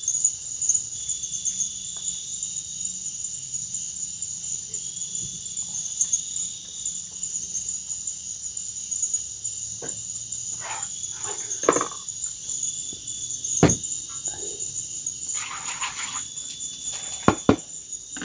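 A steady, high insect chorus of forest insects chirring without a break. Over it come a few scattered knocks and clicks in the second half.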